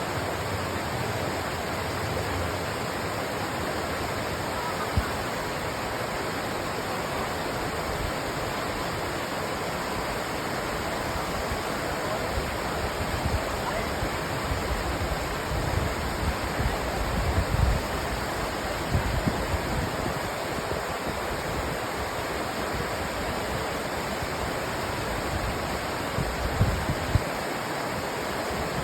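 Steady rushing of river water flowing over rocks, with a few brief low bumps about halfway through and again near the end.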